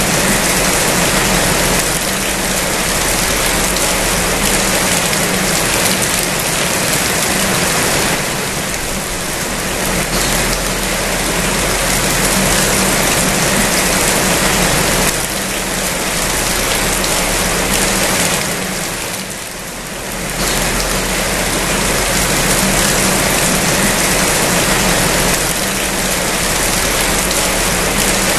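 Heavy rain falling steadily in a dense, even hiss, easing briefly twice.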